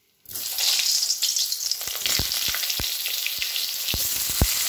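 Eggplant wedges frying in hot mustard oil in a kadai: a steady sizzle that starts suddenly just after the beginning. From about two seconds in there are several sharp pops of spitting oil.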